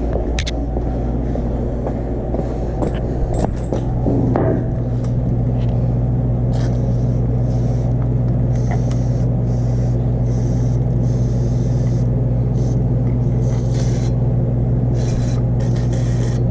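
A steady low mechanical hum runs throughout. From about six seconds in come repeated short hissing bursts of an aerosol can of PB Blaster penetrating oil being sprayed onto seized bolts.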